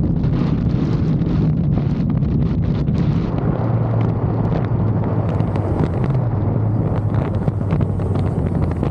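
Motorcycle riding at road speed: heavy wind buffets the microphone over a steady low engine hum. The engine note drops a little about three and a half seconds in.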